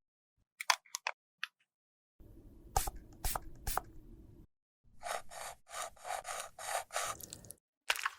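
Scraping and rubbing on a mini highlighter compact being repaired: a few light clicks, then scraping with sharp ticks, then a run of quick, even rubbing strokes at about three a second.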